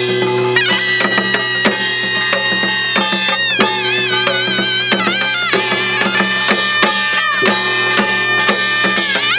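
Korean traditional dance music for the gyobang gutgeori dance: a reedy wind melody with wide vibrato and sliding bends, held long notes, over regular janggu-style drum strokes.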